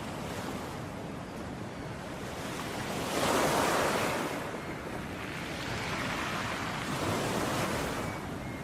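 Ocean waves washing onto a beach as a steady surf, with a louder wave breaking about three seconds in and a softer one near the end.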